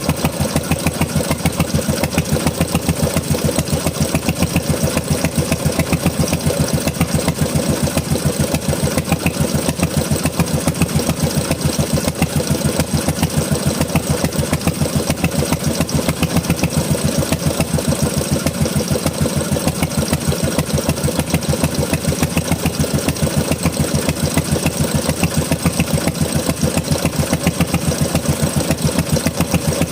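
Bernard Moteurs W14 15 HP engine running steadily, its firing strokes making an even, rapid beat.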